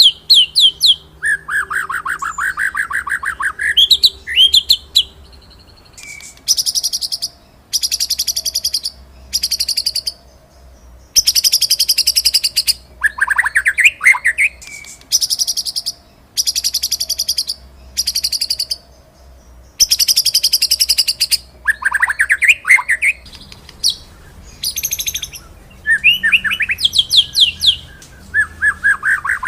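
White-rumped shama (murai batu) singing in the rolling and 'shooting' style: rapid rattling trills of about a second each, repeated with short gaps, mixed with sharp slurred whistles.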